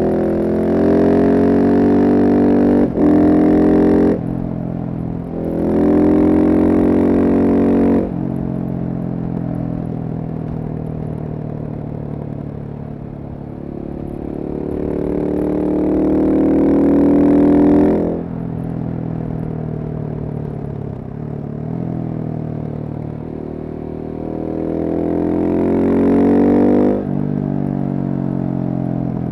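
Single-cylinder supermoto motorcycle engine under hard throttle: the pitch climbs through four pulls, then drops as the throttle closes, with a brief dip about three seconds in at a gear change. The longest pull builds gradually for about five seconds before it is shut off.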